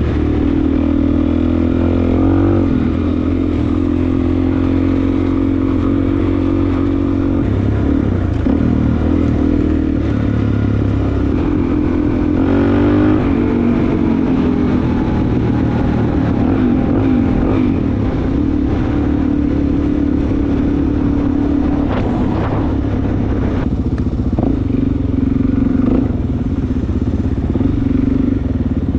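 Suzuki DRZ400S single-cylinder four-stroke dual-sport engine running steadily under way, with the revs rising briefly twice. A few sharp knocks or clatter come through later on.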